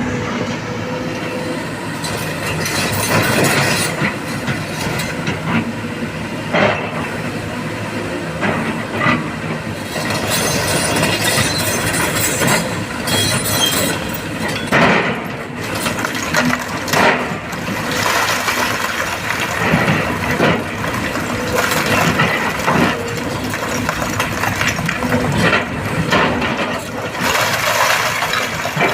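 Heavy excavator working: its diesel engine runs steadily under repeated metallic clanks and knocks from the machine.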